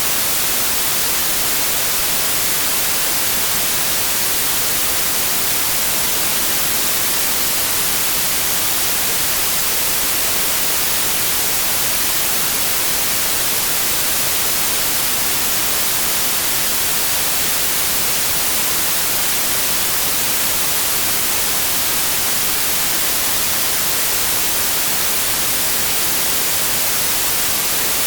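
Steady synthetic white noise: an even, unchanging hiss across the whole range.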